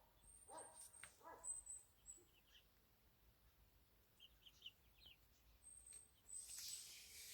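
Faint, short bird calls and chirps from young chickens, with thin high whistled notes, and a brief rustling noise about six and a half seconds in.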